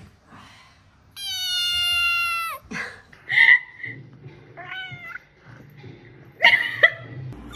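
A domestic cat meowing: one long, drawn-out meow about a second in, then several shorter meows, the loudest near the end.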